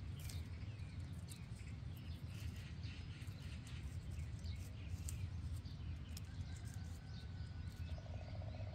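Small birds chirping here and there over a steady low rumble, with a brief buzzing sound near the end.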